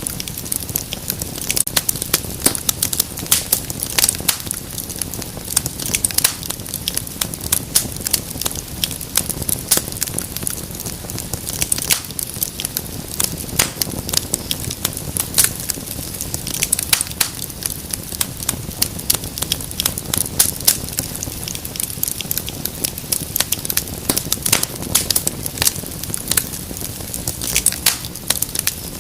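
Wood fire crackling in a fireplace: dense, irregular pops and snaps over a steady low rumble of flame.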